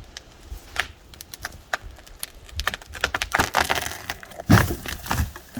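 Broken limbs and brush being handled and cleared, with twigs crackling and snapping. The crackling thickens near the middle, and a heavier knock of wood comes about four and a half seconds in.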